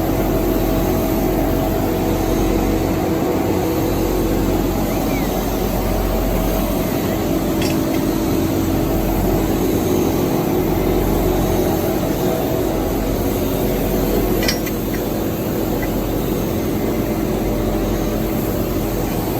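Steady hum of running workshop machinery, holding a few fixed tones over a low drone, with a couple of faint metallic clicks; the level drops slightly after the second click, about two-thirds of the way in.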